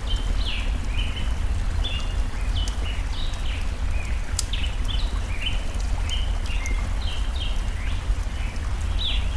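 Small birds singing, a steady stream of short chirping notes, over a constant low rumble of flowing water, with a few sharp campfire crackles, the clearest about halfway through.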